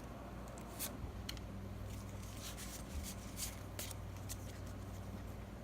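Faint handling of Pokémon trading cards: soft rustles and a few light clicks scattered through, over a low steady hum.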